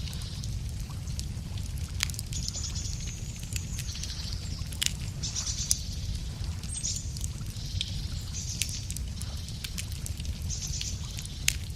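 Wood fire crackling, with sharp pops scattered irregularly over a steady low rumble. Songbirds sing short, high trilling phrases several times.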